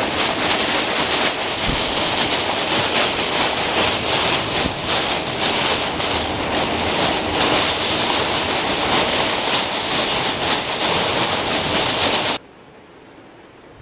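Strong thunderstorm wind and heavy rain, a loud, gusting wash of noise. It cuts off suddenly near the end, leaving a quiet room.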